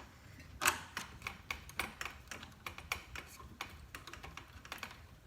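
Irregular run of light, sharp clicks and taps from handling a ceiling fan blade and its metal mounting hardware, about two to three a second, the loudest about two-thirds of a second in.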